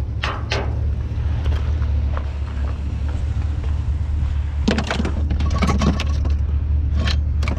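Scrap and debris being shifted in a dumpster: a cluster of knocks and clatters about five seconds in and a few more near the end, over a steady low rumble.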